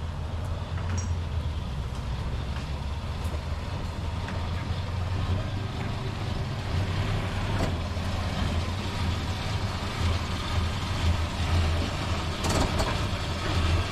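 1969 Plymouth Valiant's 225 slant-six engine running steadily, a low even drone.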